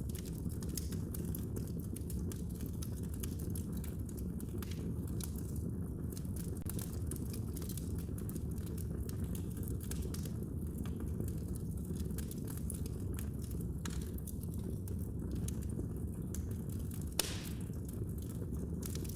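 Wood fire burning in a fireplace: a steady low rumble with dense small crackles throughout and one louder pop about 17 seconds in.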